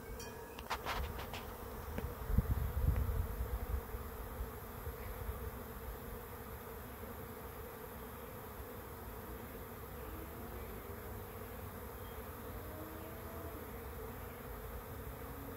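A swarm of honey bees buzzing as a steady, many-voiced hum, with single bees now and then passing close to the microphone with a sliding pitch. A few sharp clicks and a low rumble come in the first few seconds.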